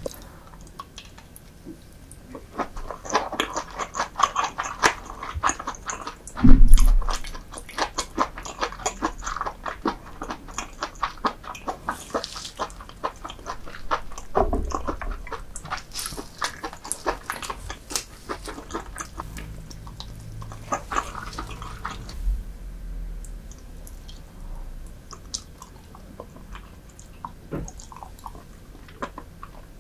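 Close-miked eating sounds: wet, rapid chewing and smacking of soy-sauce-marinated raw lobster and rice with salmon roe, with one loud low thump about six and a half seconds in. The chewing is busiest for the first two-thirds and thins out near the end.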